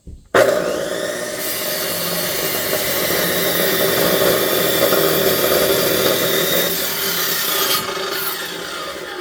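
Electric saw starting abruptly and cutting through a thick log, the blade rasping through the wood over a steady motor whine. Near the end the cutting stops and the motor winds down.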